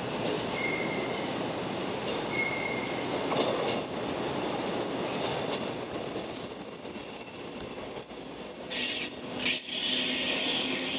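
Four-car JNR 115 series electric train rolling slowly past over curved points and rail joints, its wheels and running gear rumbling and clattering. Brief high wheel squeals come about a second in and again after two seconds, and a louder high-pitched screech and hiss rises near the end.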